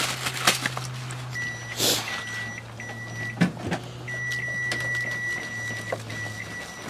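Microwave oven running with a steady low hum, a few sharp clicks and crackles, and a high steady tone that starts and stops several times from about a second and a half in.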